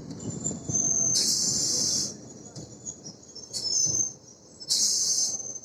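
Electric suburban local train running, heard from on board: a steady low rumble, broken three times by high-pitched wheel squeal, about a second, half a second and half a second long.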